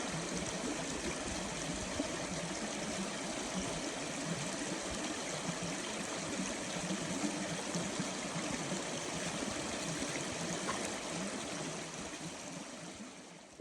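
A stream flowing with a steady rush of water, fading out at the very end.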